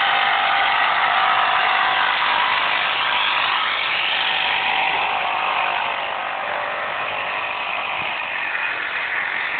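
Power saw motor running steadily at high speed, easing off slightly partway through.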